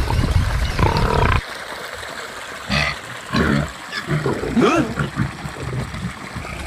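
A loud low rumble cuts off about a second and a half in. Several short animal calls follow, some bending in pitch.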